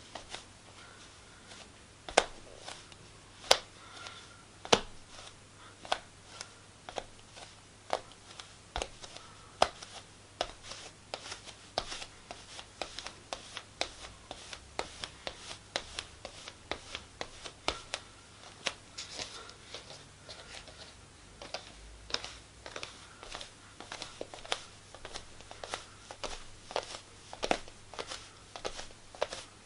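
Footsteps on a wooden floor: a continual run of irregular knocking steps, several a second, a few of them sharper and louder than the rest.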